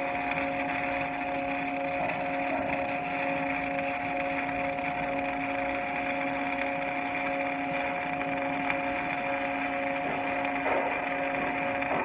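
Steady machine hum of several fixed pitches over a continuous hiss, unchanging throughout.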